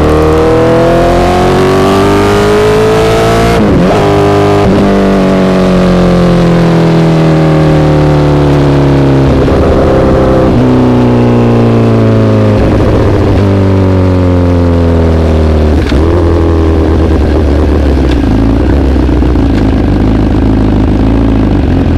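Honda CBR1000RR inline-four through an SC-Project exhaust. It revs up hard for about three and a half seconds with two quick upshifts, then the revs fall away on a closed throttle, with several downshifts on the way, and settle low near the end.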